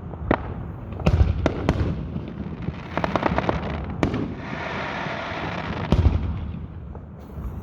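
Aerial fireworks bursting overhead: several deep booms, a quick run of crackles about three seconds in, and a stretch of crackling hiss in the middle.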